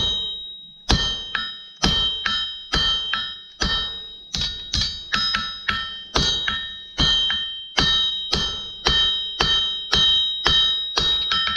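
Hand hammer striking hot steel on an anvil about two times a second, each blow followed by a bright metallic ring from the anvil, while a point is isolated on a tong blank.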